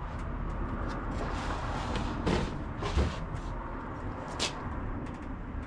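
A few knocks and scraping sounds as a track saw's guide rail is set down and slid into line on the workpiece, the loudest knock about three seconds in.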